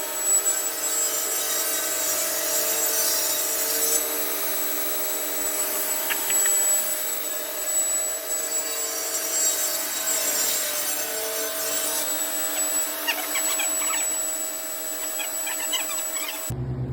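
Power saw running steadily while cutting through an old timber beam, with scattered scraping and crackling from the wood.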